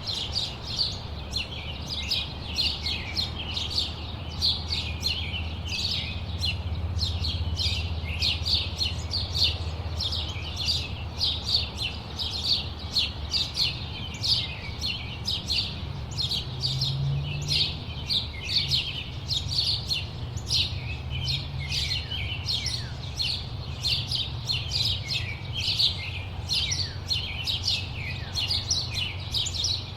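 Many small birds chirping at once, a dense chatter of short, quick high chirps with no break. A low steady rumble runs underneath.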